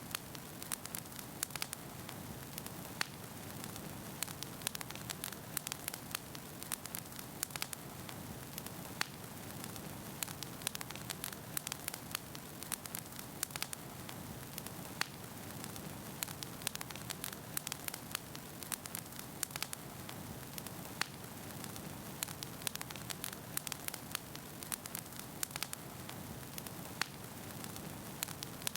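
Wood fire burning in a fireplace: a steady low rush of flames with frequent sharp crackles and pops of burning logs.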